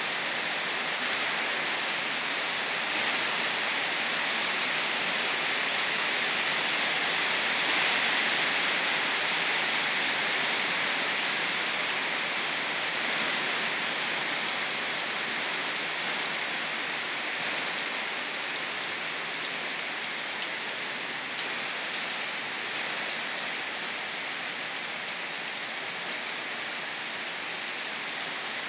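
Rain falling steadily in a downpour, a continuous even hiss. It swells slightly about eight seconds in and eases a little toward the end.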